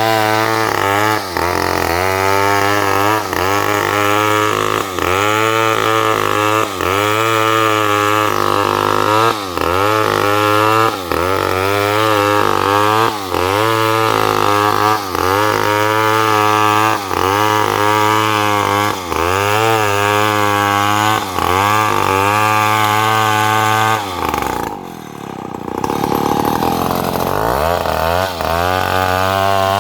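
Chainsaw cutting wood under load, its engine pitch dipping and recovering about every two seconds as the chain bites. About three-quarters of the way through it drops briefly toward idle, then revs back up.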